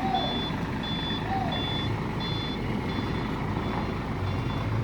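A heavy truck's reverse alarm beeping steadily, a little under one-and-a-half beeps a second, over its diesel engine running.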